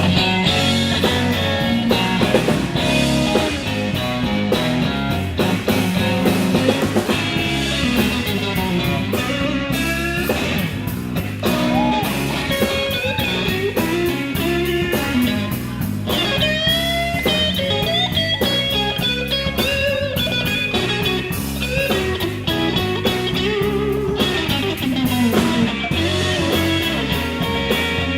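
Live blues band playing an instrumental break between verses: an electric guitar lead with bent, sliding notes over bass and drums.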